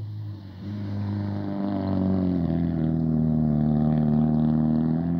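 Mitsubishi Lancer Evo IV's turbocharged four-cylinder engine revving hard under acceleration. The engine note rises in pitch and grows louder over the first two seconds, then holds high, sagging slightly.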